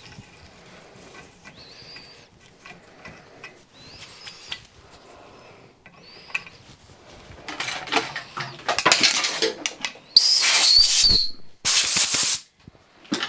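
Hand tap cutting a 10 mm thread in a repaired bolt hole of an engine part: a few short high squeaks, then rougher scraping from about seven seconds in. Near the end come two loud hissing bursts, the first with a high whistle in it.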